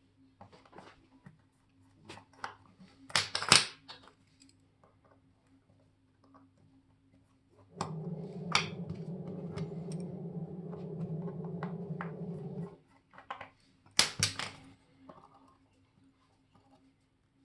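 Small metal tools and parts clicking and tapping on a watchmaker's bench, with sharper clatters about three seconds in and near the end. In the middle, a small electric device hums steadily for about five seconds, then stops.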